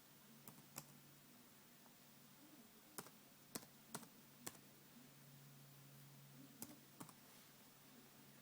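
Faint, separate keystrokes on a Sony Vaio laptop keyboard, about eight taps at irregular spacing, as a wireless network security key is typed in.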